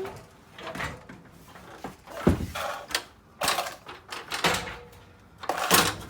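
Irregular knocks, clicks and clatter of objects being handled and moved about, with a sharp knock a little over two seconds in.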